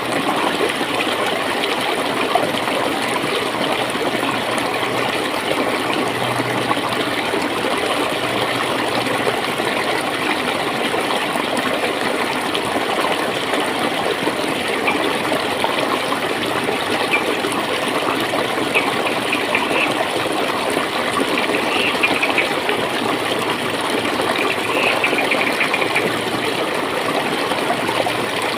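Clear water flowing and gurgling steadily in a stream.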